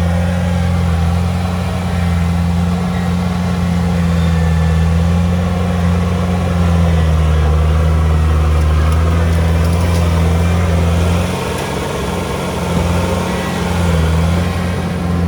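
Heavy diesel engine of earthmoving machinery running steadily at work, a loud low drone that eases briefly about eleven seconds in and again near the end.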